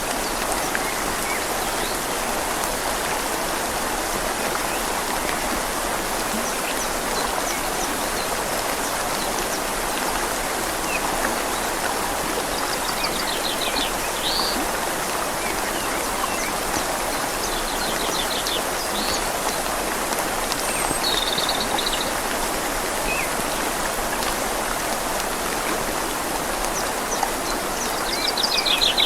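Steady rushing of a flowing river mixed with rain falling on leaves, with a small bird's short rapid twittering trills a few times, the loudest near the end.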